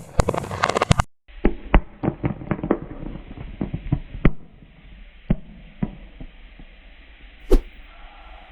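A quick flurry of sharp clicks, then a run of separate knocks that come less and less often over a faint hiss, with one more sharp knock near the end.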